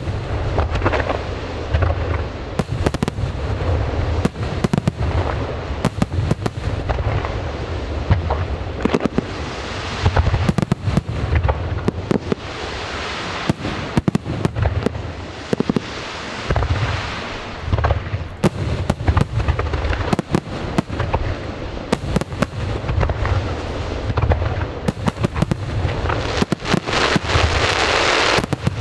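Aerial fireworks going off in quick succession: many sharp bangs of bursting shells over a continuous rumble and crackle. The crackling grows denser near the end.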